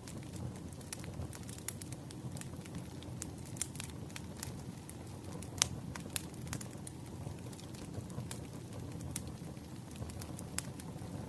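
Campfire burning with a steady low rumble and frequent irregular crackles and pops, one louder pop about halfway through.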